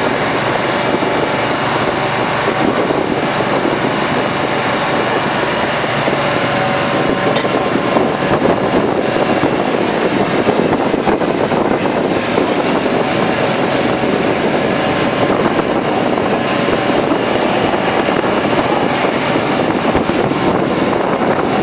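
Steady, loud running of vehicle engines in the street, an even rumble with faint steady tones through the first half.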